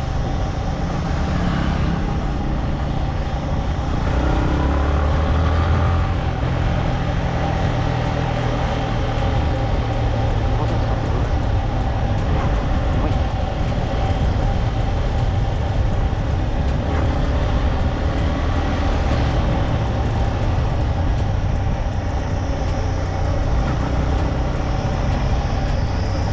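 Motorcycle being ridden, its engine and road noise running steadily.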